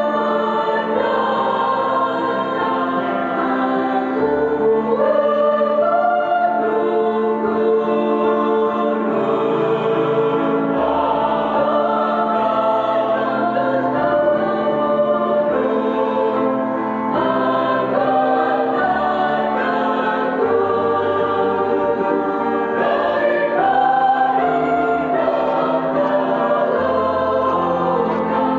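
Choir singing a Christian hymn in Indonesian, several voices together in harmony, with long held notes that move from chord to chord without a break.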